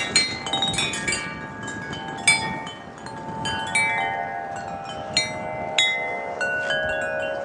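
Wind chimes struck by a gust, hitting irregularly at several different pitches, each note ringing on after the strike, over a light wind noise.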